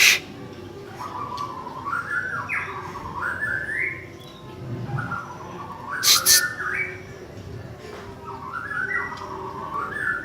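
Cucak ijo (greater green leafbird) song: a continuous run of warbling, sliding phrases. Loud sharp clicks cut in right at the start and twice about six seconds in.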